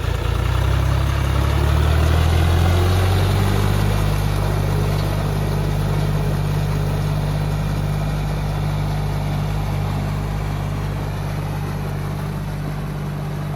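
Tractor engine running steadily with a low, even drone while ploughing a paddy field, a little louder a few seconds in and then slowly fading.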